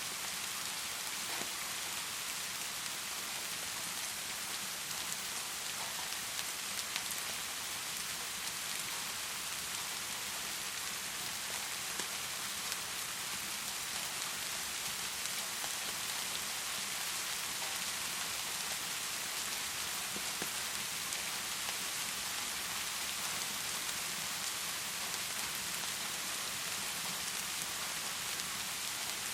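Heavy rain pouring steadily, an even hiss of rain with a few faint ticks of single drops.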